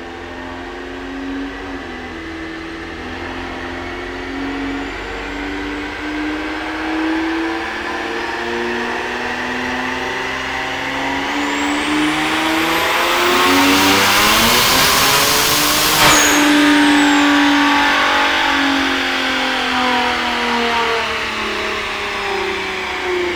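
Kia Stinger's twin-turbo 3.3-litre V6 making a wide-open-throttle dyno pull on its lowest boost setting. The engine note builds and then climbs steeply in pitch with a high whine rising alongside, peaks about two-thirds of the way through, cuts off abruptly as the throttle closes, and winds down.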